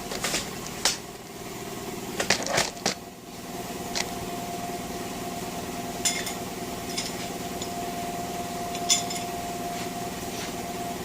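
Steel engine parts on a small-block Chevy 350 clinking and tapping against metal as they are handled during teardown: a cluster of sharp clinks in the first three seconds, then single clinks every second or two, over a steady background hum.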